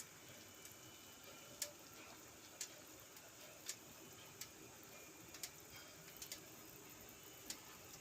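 Near-quiet room tone with faint, sharp ticks about once a second, slightly uneven in spacing.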